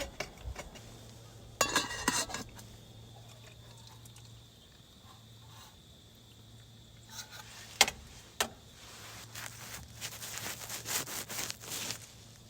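Camp cookware being handled: metal clinks and clatter of pan and lid pieces, with rustling, in short clusters. There are two sharp clicks in the middle and a longer bout of clattering near the end.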